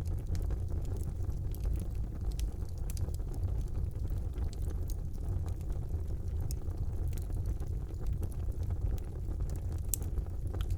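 Fire burning in a fireplace: a steady low rumble of flames with frequent small crackles and pops, one sharper pop near the end.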